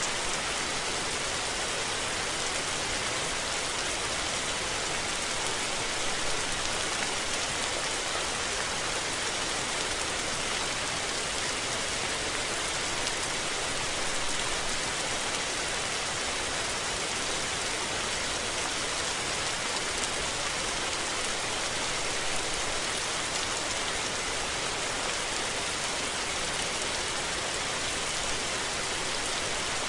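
Steady rain falling, heard as an even, unbroken hiss of many drops.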